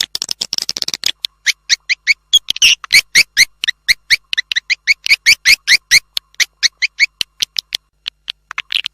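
Edible-nest swiftlet lure call played through a speaker: a rapid, even run of short rising chirps, several a second, with a brief pause near the end.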